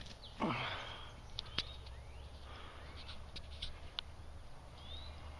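Small birds chirping in the woods, short rising and falling notes, with one louder, harsher call about half a second in and a few light clicks.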